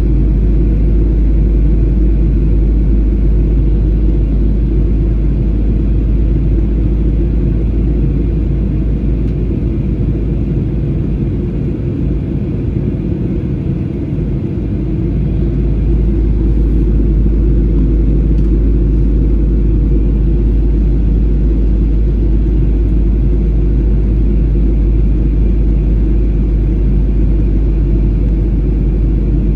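Steady low rumble of a jet airliner's engines and airflow, heard inside the cabin. It eases slightly for a couple of seconds about twelve seconds in.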